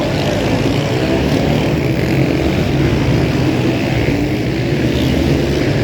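Supermotard motorcycle engines running, their pitch rising and falling as they rev.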